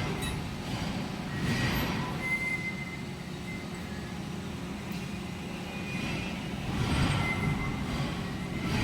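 Milling machine drilling metal: a steady motor hum under the rasp of the bit cutting, swelling twice, with short thin squeals from the cut.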